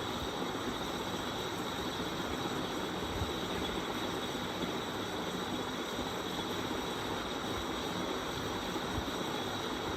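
1994 SMC GEC 120 cm ceiling fan running on high, its badly worn bearings making a steady grinding rumble with a constant high whine over it.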